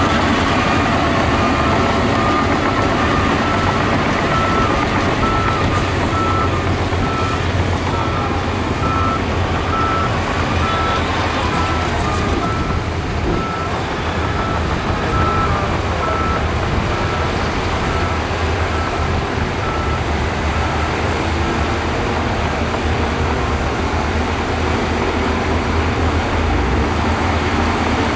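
Diesel engines of heavy earthmoving machinery running steadily, with a reversing alarm beeping at an even pace that stops about twenty seconds in.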